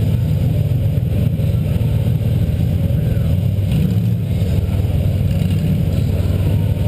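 The 2000 Buick LeSabre's 3.8-litre V6 demolition-derby engine running steadily, heard from inside the car.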